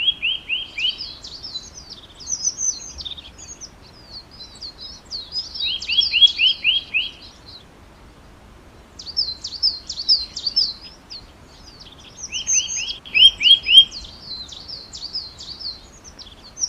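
A songbird singing. Each phrase is a quick run of five or six falling notes followed by high, jumbled twittering, and the phrase repeats three times with shorter twittering between.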